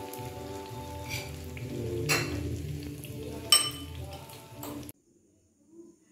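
A corned-beef martabak sizzling as it fries in oil in a frying pan, with a few sharp clicks, the loudest about three and a half seconds in. Background music plays over it. The sound cuts off suddenly just before five seconds in.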